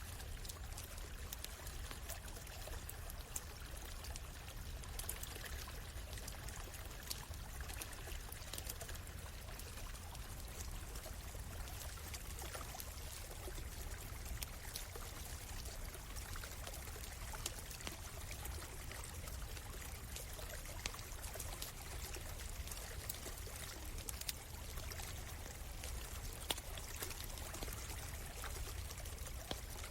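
A small stream trickling steadily, with scattered sharp crackles and pops from a wood campfire.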